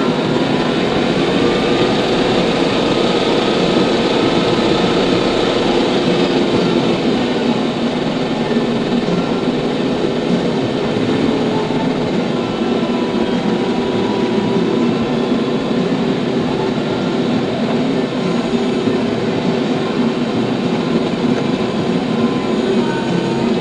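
TYM T574 tractor running steadily at a constant engine speed, with a wavering whine over the engine noise.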